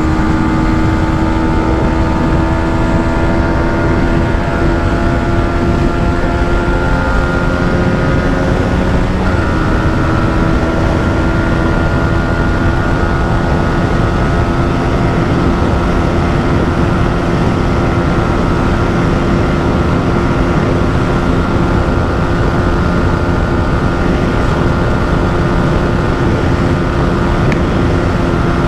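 Yamaha MT-15's 155 cc single-cylinder engine held at high revs under full throttle, its note creeping slowly upward, with a short break and step in the note about nine seconds in. A steady rush of wind noise runs underneath.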